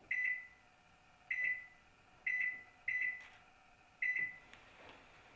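Microwave oven beeping: five short tones of the same pitch, each fading quickly, at uneven gaps.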